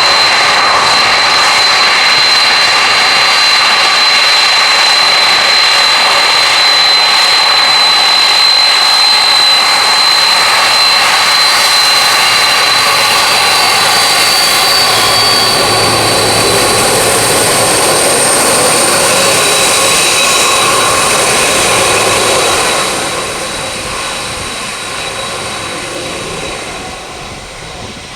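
Boeing 767-200 jetliner's turbofan engines running loud, a steady roar with a high whine over it. The sound falls away noticeably about 23 seconds in.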